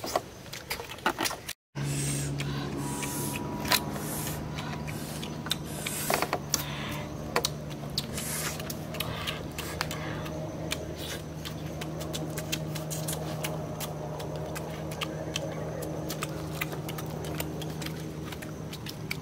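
People eating by hand at close range: many small, irregular clicks of chewing and lip-smacking. A steady low hum runs under them from just after a brief dropout about a second and a half in.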